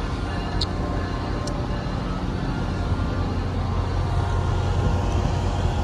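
A train running at the station: a steady low rumble with a humming engine drone, getting slightly louder toward the end, with two brief high-pitched ticks about half a second and a second and a half in.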